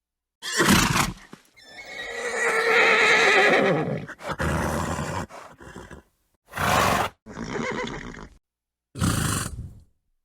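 Horse whinnying: a short burst, then a long wavering neigh from about one and a half to four seconds in, followed by several short separate bursts of breath with silent gaps between.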